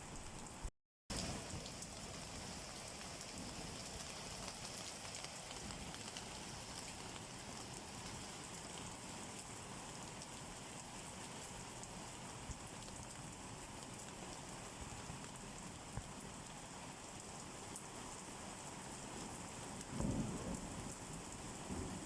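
Steady rain falling, with a short gap of silence about a second in and a brief low rumble near the end.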